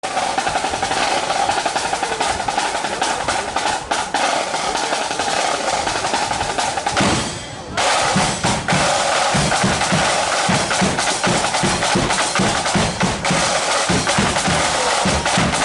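Marching flute band playing, flutes over rattling snare drums. There is a brief drop about seven seconds in, after which a bass drum beats a steady rhythm under the flutes and snares.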